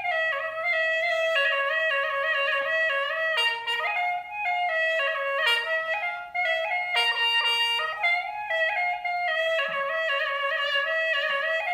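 Instrumental background music: a reedy wind instrument playing a melody of short notes stepping up and down.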